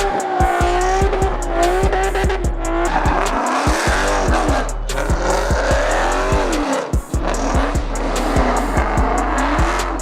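Car tyres squealing with a wavering, rising-and-falling pitch, over music with a heavy bass and a steady beat.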